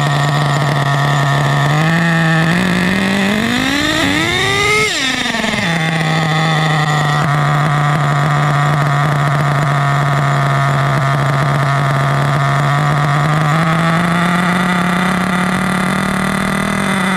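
HPI Savage X 4.6 nitro engine idling, revved up once and back down about three to five seconds in. Near the end, during a low-speed needle pinch test, its idle slowly speeds up for about four seconds and then starts to die, the sign of an ideal low-speed needle tune.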